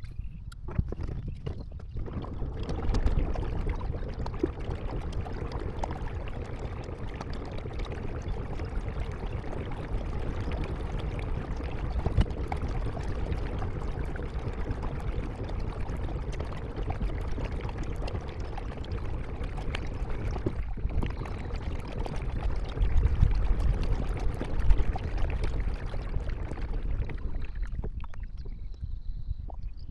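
Water splashing and trickling around a kayak under way: a steady rush of water that drops away near the end.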